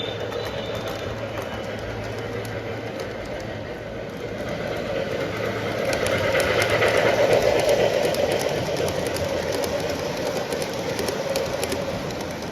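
Model train running on the track, its wheels clicking over the rail joints over a steady rolling hum. It grows louder from about four seconds in, is loudest around seven seconds as it passes closest, then eases off.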